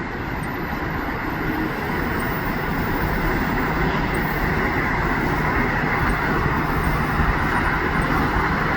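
Via Rail Siemens Venture passenger train, hauled by a Siemens Charger diesel locomotive, starting to move off after a stop. Its rumble grows steadily louder, and a low steady hum comes in about two seconds in.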